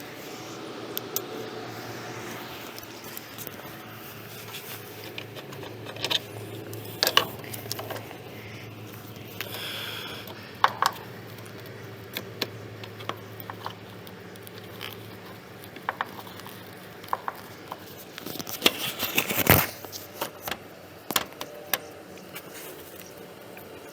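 Tools and fittings being handled: scattered clicks, taps and scrapes, with a denser run of sharper knocks about three-quarters of the way through, over a faint low hum that stops a little past halfway.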